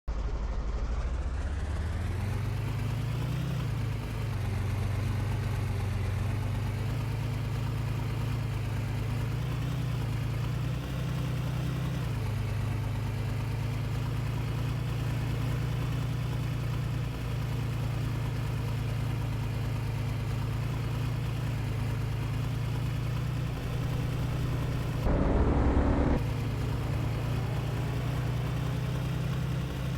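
A vehicle engine running steadily with a low hum. About 25 seconds in there is a brief, louder rush of noise lasting about a second.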